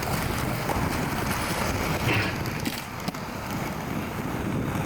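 Skateboard wheels rolling over rough pavement, a steady rumble with a few light clicks.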